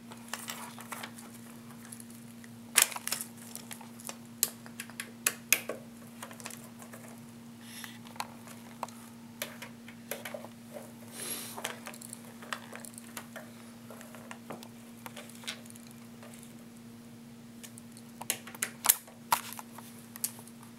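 Screws being tightened into a metal computer case with a hand screwdriver: scattered sharp clicks and taps, bunched around 3, 5, 11 and 19 seconds in, over a steady low hum.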